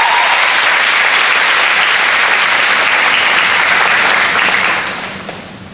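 School assembly audience applauding, a steady clapping that fades out over the last second or so.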